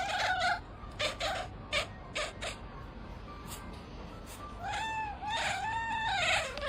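A domestic cat meowing: a short call at the start, a few short sharp sounds, then about three drawn-out meows near the end, each rising and falling in pitch.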